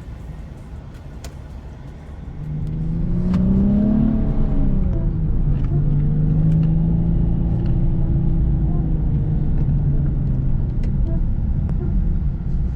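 Car engine revving up and easing off again about three to five seconds in, then holding a steady drone, over a constant low road rumble.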